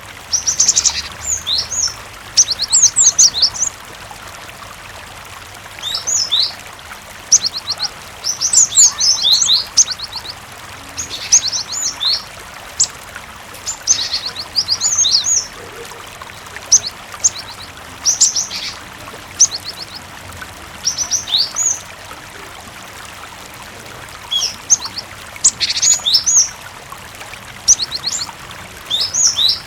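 Cinereous tit (gelatik batu) singing in bursts of quick, high chirps and short rapid trills, a new burst every second or two, over a steady bed of running water.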